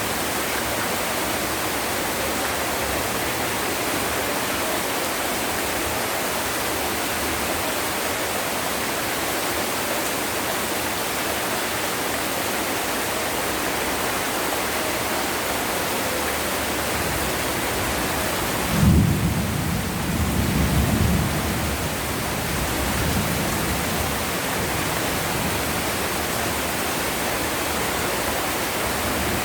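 Heavy rain falling steadily in a dense hiss. About two-thirds of the way through, a sudden low clap of thunder breaks in and rumbles on for a few seconds before fading back under the rain.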